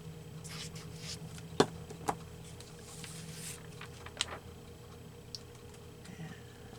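Paper being handled and slid about as cutouts are glued into a collage journal, with a few sharp clicks or taps, the loudest about a second and a half in, over a steady low hum.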